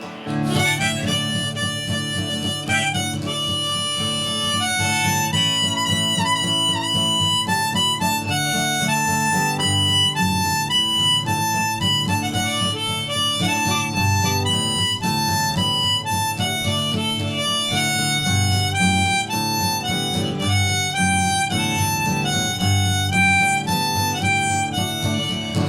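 Harmonica playing an instrumental melody of held and stepping notes over acoustic guitar strumming.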